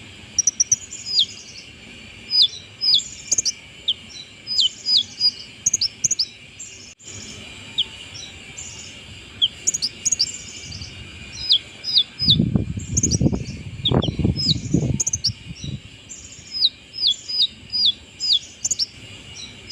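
Konin sunbird singing after its moult: repeated runs of high, sharp chirps and quick downward-sliding notes. A low rumbling noise comes in between about twelve and fifteen seconds in.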